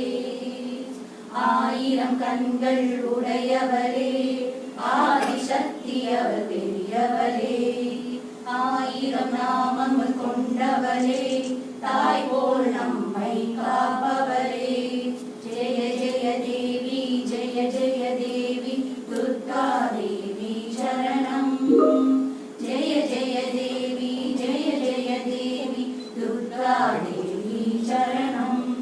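Group of female or children's voices singing together in unison over a steady held drone note.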